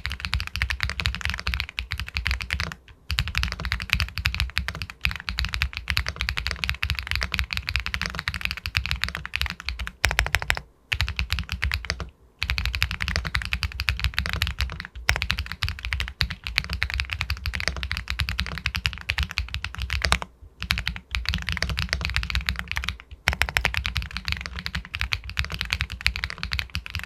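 Fast, continuous typing on an Epomaker Galaxy 80 Pro all-aluminium mechanical keyboard with White Jade linear switches, a pebble-like clack of keystrokes broken by a few brief pauses.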